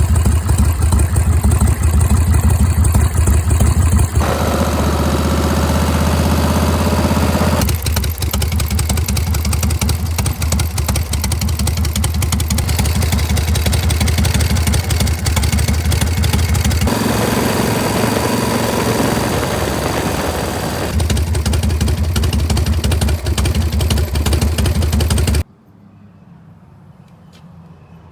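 1981 Harley-Davidson Shovelhead V-twin engine running with a deep, steady rumble, heard in several clips cut together. About 25 seconds in the engine sound cuts off abruptly and only a much quieter background remains.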